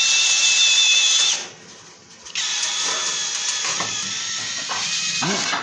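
Drill spinning a rotary chimney-sweeping brush on rods inside a sandwich flue: a steady high motor whine that stops about a second and a half in, then starts again a second later and runs until just before the end.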